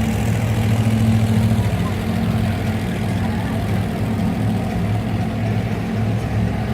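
Monster truck engine running at a steady pitch with a deep, fast pulse, not revving.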